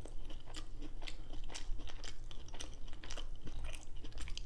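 Close-up chewing of a mouthful of fried cod fish sandwich, with many small irregular crunches from the breading.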